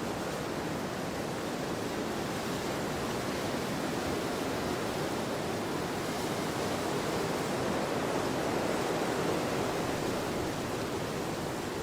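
Wind blowing across an open field: a steady rushing noise that swells gently partway through and eases a little near the end.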